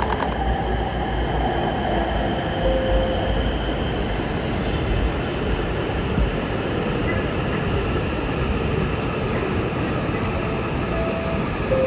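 An E5 series Shinkansen train running, with a steady rushing noise and a high-pitched squealing whine held over it that fades slightly later on.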